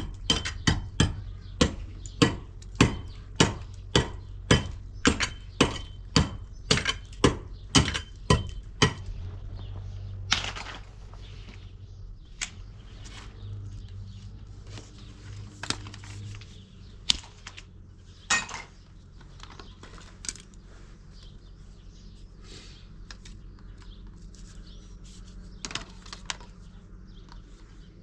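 Hand hammering on construction work: steady blows about two a second, each with a slight metallic ring, stopping about nine seconds in. A few scattered single knocks follow.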